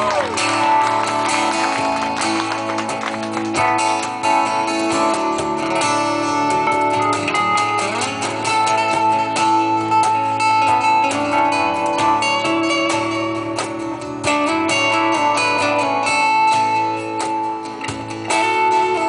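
Live rock band playing, with guitars prominent.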